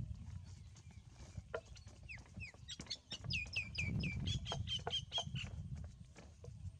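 Bird chirping: a quick run of about a dozen short, high chirps, each falling in pitch, starting about two seconds in and stopping a little after five seconds, over a steady low rumble.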